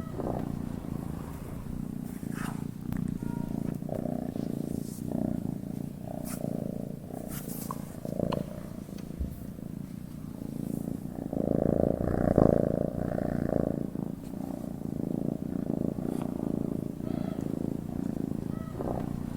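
Domestic cat purring as it sleeps: a low, steady purr that swells and eases with each breath, with one louder, longer swell about twelve seconds in.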